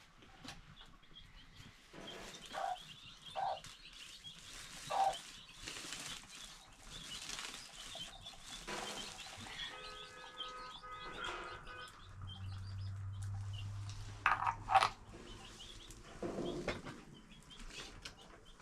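Outdoor farm-animal sounds: short animal calls every second or so over a light steady hiss, with two louder calls about two-thirds of the way through.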